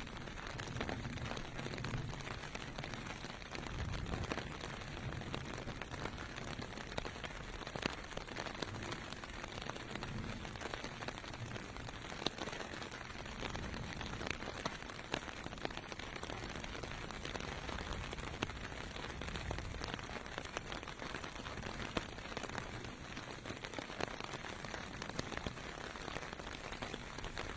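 Steady rain pelting pavement, an even hiss dotted with small drop ticks, over a low rumble of distant traffic that swells at times.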